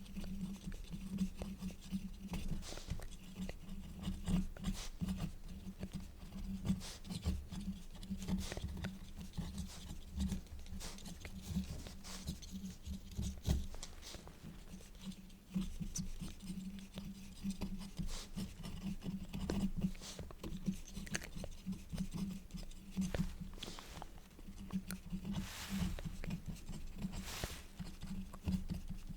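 Quill nib scratching across paper in a dense run of short, close-miked strokes, with two longer, louder strokes near the end.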